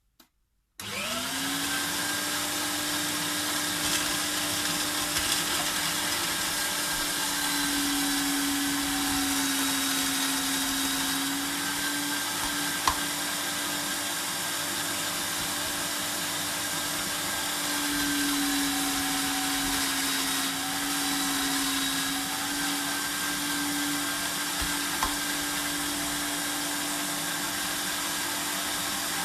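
Electric food processor shredding carrots: its motor spins up about a second in and runs steadily, the pitch sagging a little a few times as it takes on load.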